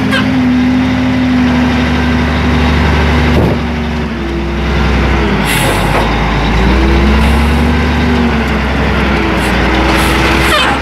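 Caterpillar 980F wheel loader's diesel engine heard from inside the cab, running loud and steady, then revving up and down twice as the machine works. Short hisses come through a few times.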